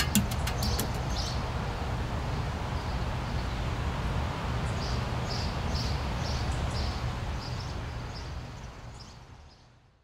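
Birds chirping, a string of short high calls a few times a second, over a steady low rumble; everything fades out near the end.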